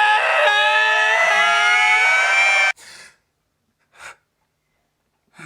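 A long, loud scream rising slowly in pitch, cut off abruptly about two and a half seconds in. Then near silence with two brief faint sounds.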